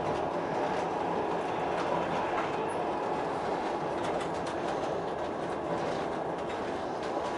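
Passenger train carriage running along the line: a steady rumble of wheels on rails with faint clicks from the rail joints, heard from inside the carriage.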